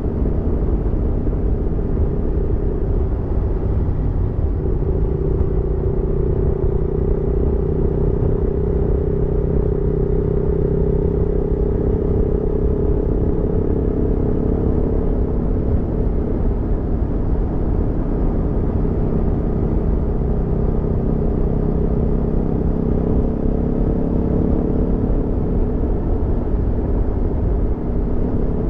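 Aprilia Tuono V4 motorcycle's V4 engine running steadily under way at a light, even throttle, its pitch drifting slowly up and down, over a low steady rumble.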